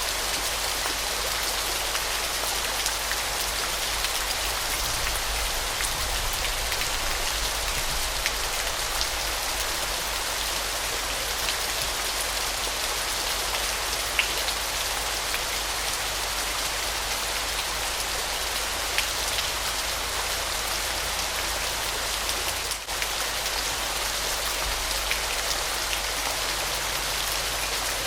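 Waterfall: a steady hiss of falling, splashing water with a fine, rain-like patter of droplets, light in the low end.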